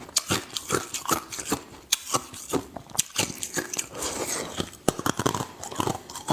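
A person chewing ice close up: a run of hard, crisp crunches, about two or three a second, softening briefly a little past the middle.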